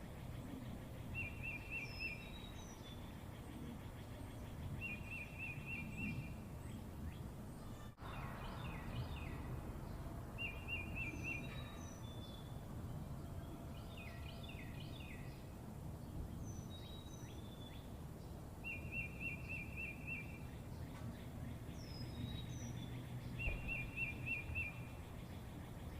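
Birds singing: a short, quick trilled phrase repeated every few seconds, with scattered higher chirps between, over a steady low background hum.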